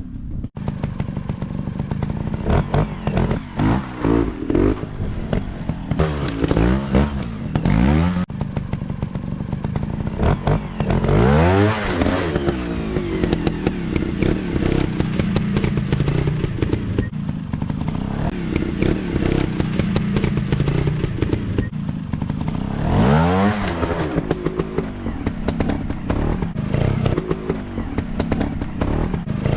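Dirt bike engines running hard and revving up and down over and over, with sharp rises and falls in pitch several times, the strongest about a third of the way in and again around three quarters through.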